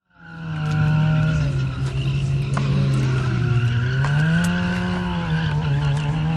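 Motorcycle engine held at high revs with its pitch wavering up and down, with tyre squeal over it. It swells up out of silence within the first second.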